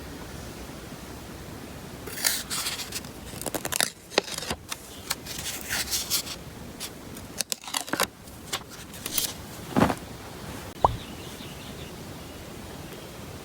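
Irregular crinkling and scraping of objects being handled close to the microphone, in uneven bursts, with a single sharp click near the end.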